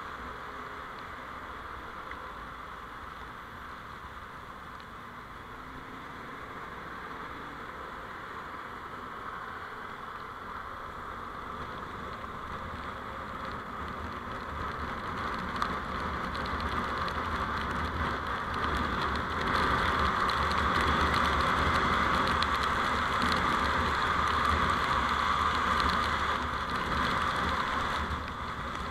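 Steady road and wind noise from a moving vehicle, picked up by a dashcam microphone. It builds through the middle, is loudest for several seconds, then drops off near the end.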